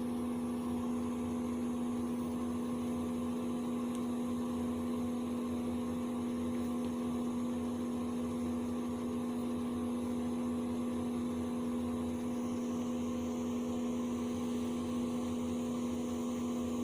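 A steady machine hum at one constant pitch, with a faint hiss under it.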